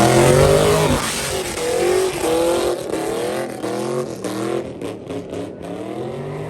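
Car engine revving hard in quick, repeated rising pulls while the spinning tires hiss and squeal, as in a drifting donut. Loudest in the first second.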